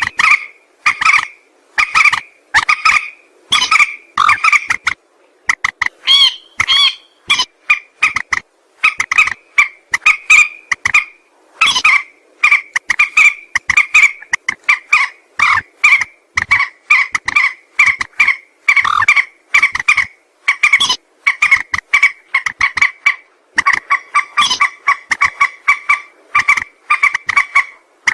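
Mandar sawah (a rice-field rail) calling: loud, short, harsh notes repeated about once or twice a second in an unbroken series.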